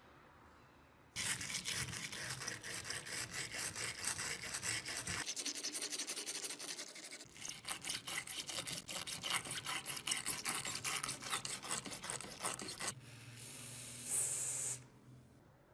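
Fast, repeated hand-scrubbing strokes rubbing over a surface, with a few abrupt cuts between passes. A shorter, steadier hiss follows near the end.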